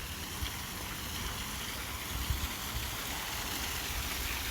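Steady rush of falling water from a waterfall, with irregular low rumbling beneath it.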